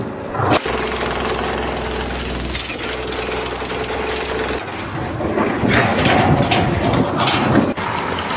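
Construction machinery noise: a steady mechanical din with a low hum, then irregular knocks and clatter from about halfway through.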